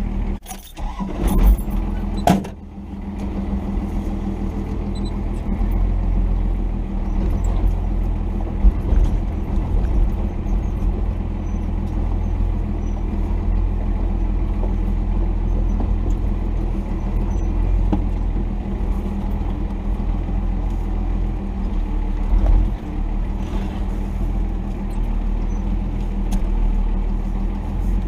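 Cummins 5.9-litre inline-six turbodiesel of a 1990 Dodge D250 pickup running steadily at low revs on a slow off-road descent. A few sharp knocks and rattles come about one to two seconds in.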